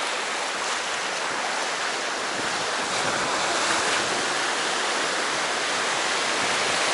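Sea waves washing on the shore: a steady rush of surf that swells a little toward the end.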